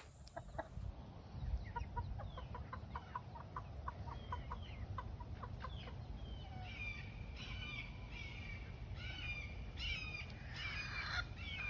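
Chickens clucking: a quick run of short clucks, then higher, falling calls from about six seconds in.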